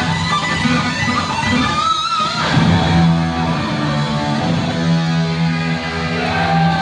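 Heavy metal band playing live, led by distorted electric guitar over bass. A high wavering guitar note comes about two seconds in, then from about halfway the band holds a long low chord.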